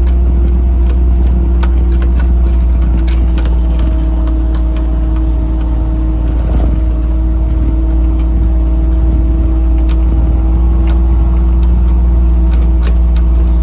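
Motor vehicle driving at a steady engine speed, heard from inside: an even engine hum over a heavy low rumble, with scattered clicks and knocks.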